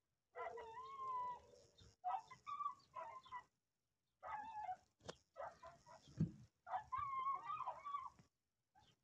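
Stray dogs fighting: high-pitched yelping and whining cries in several short bouts, with a sharp knock about five seconds in.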